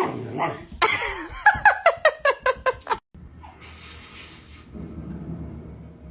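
A person laughing, ending in a quick run of six or seven ha-ha bursts. It cuts off abruptly about three seconds in, followed by a brief hiss and a low steady hum.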